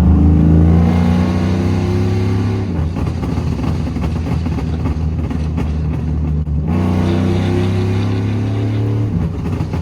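A car or truck engine revved hard and held high twice, falling back to rougher running for a few seconds in between.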